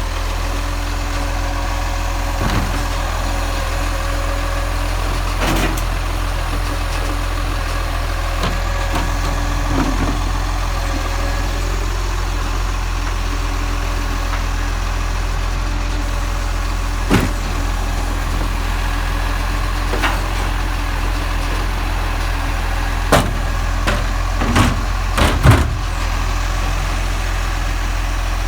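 Garbage truck engine running with a steady low drone, with scattered knocks and clunks, the loudest in a cluster near the end.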